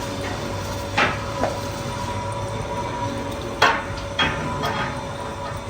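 Workshop machinery running with a steady hum and a continuous tone, broken by about five sharp metallic clanks, two near the start and three close together in the middle, as metal parts are struck or knocked against each other.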